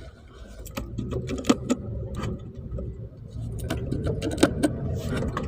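Sharp metallic clicks and clinks, several close together at times, over a low vehicle rumble that grows louder.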